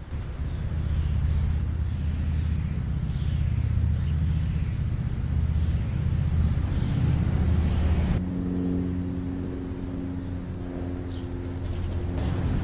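Low vehicle engine rumble that changes abruptly about eight seconds in to a steadier engine hum. Faint short chirping calls of birds sound over it in the first half.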